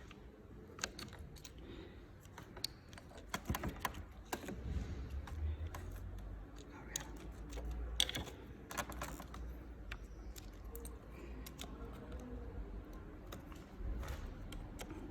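Irregular small clicks and light knocks of hand work on the motorcycle's handlebar controls while the throttle assembly is being taken off, over a faint low rumble.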